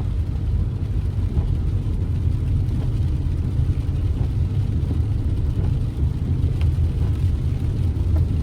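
A car being driven, a steady low rumble of engine and road noise.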